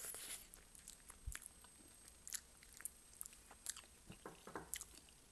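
Close-up mouth sounds of someone eating Korean spicy chicken feet in sticky chili sauce: faint biting and chewing, with a string of short clicks and crunches about every half second.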